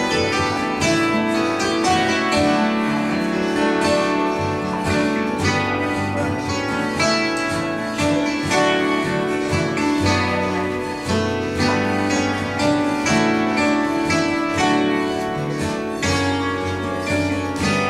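Live acoustic instrumental music: plucked string instruments playing a dense run of quickly picked notes over ringing, sustained tones.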